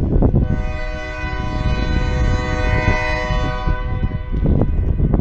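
Locomotive air horn sounding one long chord-like blast of about four seconds, starting about half a second in, over steady wind rumble on the microphone.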